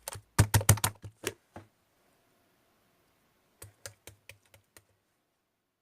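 Two short runs of quick, sharp clicks: a louder cluster of about eight in the first second and a half, then a fainter cluster of about six at around four seconds.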